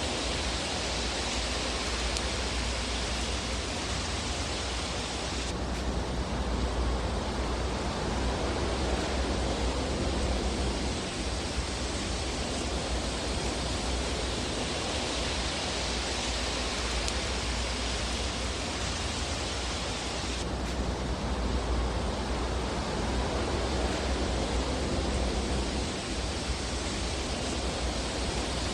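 Fireplace fire ambience: a steady, even rushing hiss with a low rumble beneath it and no distinct crackles. The hiss changes character abruptly twice, about 15 seconds apart.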